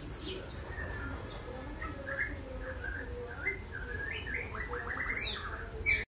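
A songbird chirping and singing. Short high chirps come first, then from about two seconds in a varied phrase of whistled notes, ending in a louder sweeping note and a quick run of notes near the end.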